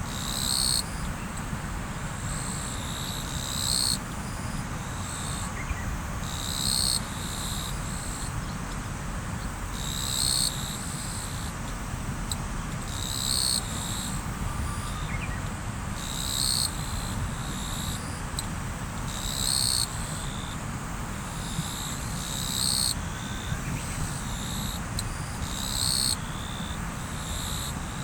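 Riverside ambience: a river running steadily, with a short, high-pitched chirping call that repeats about every three seconds over it.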